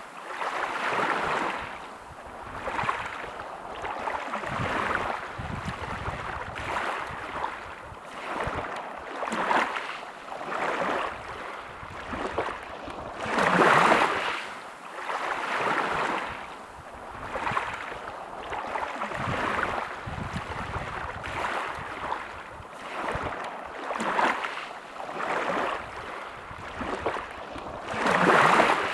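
Small sea waves washing in and drawing back, swelling every couple of seconds, with a bigger surge about halfway through and another near the end.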